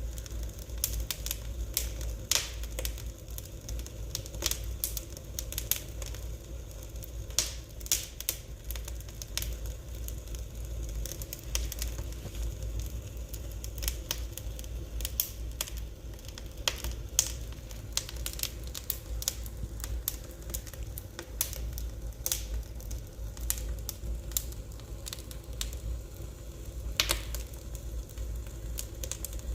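Fire crackling in a fireplace: irregular sharp pops and snaps of varying loudness over a steady low rumble.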